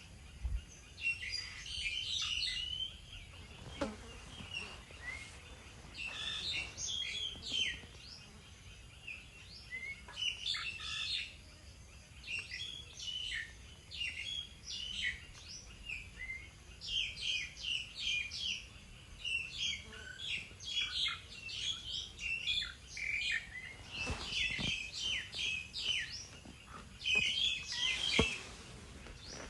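Small songbirds chirping, many rapid high chirps coming in clusters with short gaps between them.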